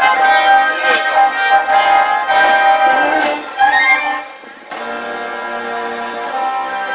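Live band music with brass instruments playing a melody. About four seconds in the playing drops away briefly, then steady held chords follow.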